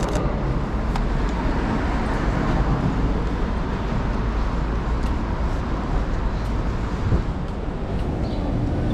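Steady city street traffic noise from passing cars and engines.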